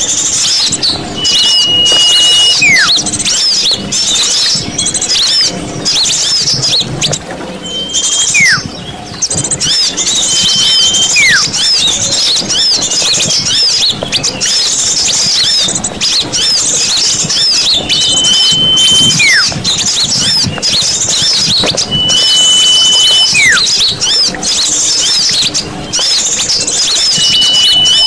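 Bird-lure recording of many small birds calling at once, a dense high chattering chorus. Every few seconds one bird gives a held, level whistle, then a separate whistle that falls in pitch.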